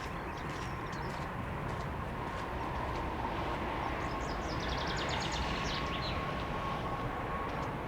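Jet airliner engines running with a steady rumble and a whine that grows slightly louder. Birds chirp in a quick series about halfway through.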